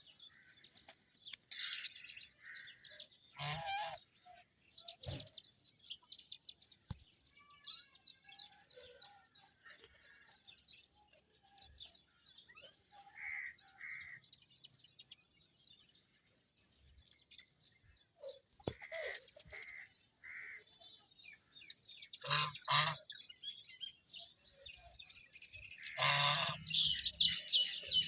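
Duck calling with loud honking quacks a few times, loudest near the end, over a constant high chirping of small birds.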